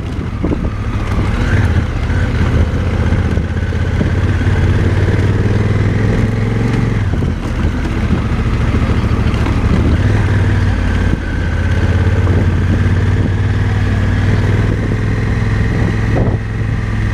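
Motorcycle engine running under steady throttle while riding, its note easing off briefly twice, about seven and eleven seconds in.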